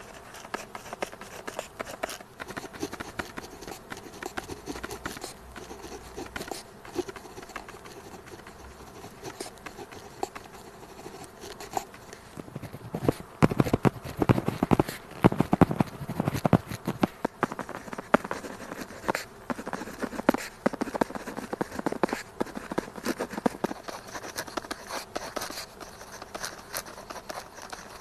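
Pen tip writing on paper: a run of quick scratching strokes and taps, busier and louder from about halfway through for a few seconds.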